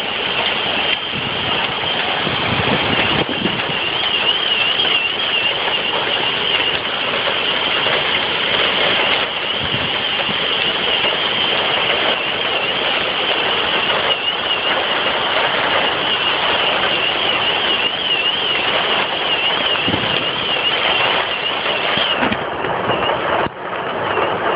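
Heavy rain pouring steadily, heard through a mobile phone's microphone.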